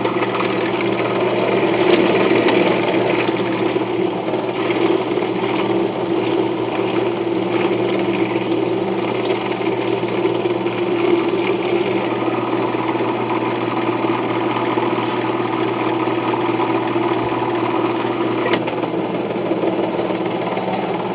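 A power tool running steadily while shaping a brass knife guard, with several short high squeaks in the middle as the metal is worked.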